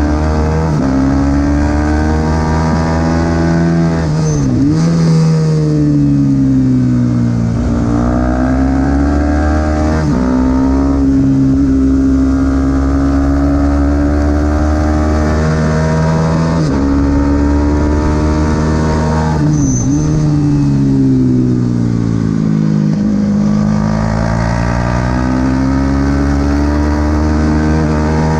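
Supersport 300 racing motorcycle engine at full race pace, revving up through the gears with sudden drops in pitch at each shift, and two hard falls and pickups in pitch, about four seconds in and again around twenty seconds, as it brakes, downshifts and accelerates out of corners.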